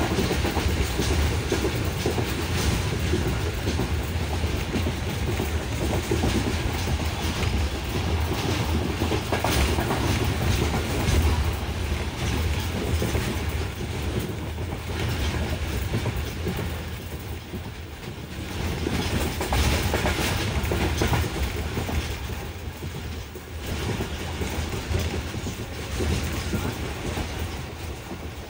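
Moving passenger train heard from inside the carriage: steady running noise with the wheels clacking over the rail joints.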